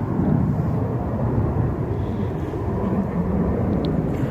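Wind buffeting a phone's microphone: a steady, uneven low rumble.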